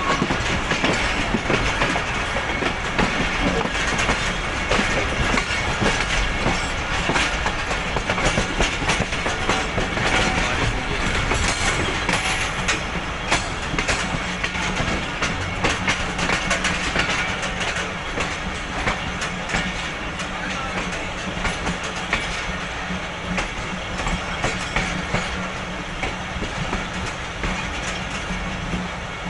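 Passenger train in motion, heard from the open side of one of its coaches: a steady rumble and rattle of the wheels on the rails with many sharp clicks over rail joints and points, slowly getting quieter.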